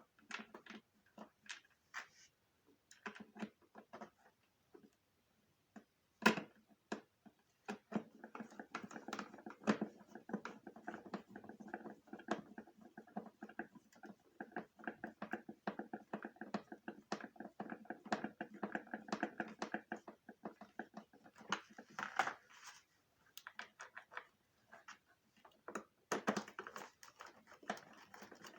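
Screws being tightened into the plastic body of a Zanussi vacuum cleaner during reassembly: a run of clicks and knocks, with a steady whirring hum through the middle that stops about two-thirds of the way through.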